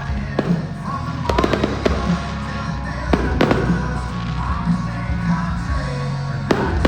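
Fireworks bursting in sharp bangs, with a quick cluster of bangs in the second second, two more a few seconds in and another near the end, over loud music playing throughout.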